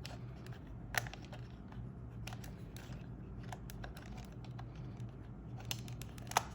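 Scattered light plastic clicks and taps from a camera lens-shade door being pressed onto its hinge. The loudest click comes about a second in, another near the end.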